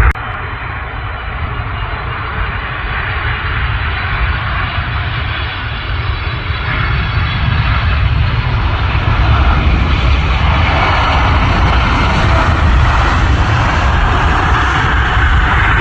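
Engine noise of an aircraft on approach to land, a steady rumble that grows gradually louder as it comes nearer.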